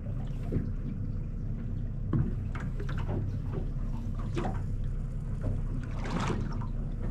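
Fishing boat's engine running with a steady low hum, with water splashing against the hull and a few scattered knocks on deck.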